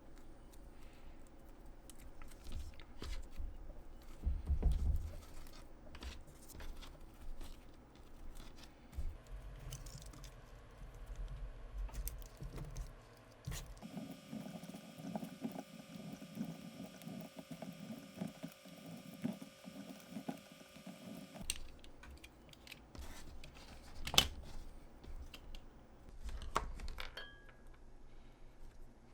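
Hands-on crafting noises: small clicks, scrapes and rustles of materials being handled and worked. A steady hum with several even tones runs for about seven seconds in the middle and cuts off suddenly, and there is one sharp click a few seconds later.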